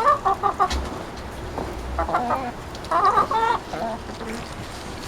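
Chickens clucking in short bursts of calls, with the loudest near the start and about three seconds in.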